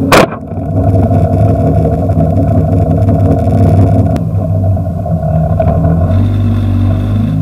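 Alfa Romeo GT's enlarged, naturally aspirated 2.0 four-cylinder engine running steadily, heard from inside the cabin. There is a single sharp knock about a quarter second in.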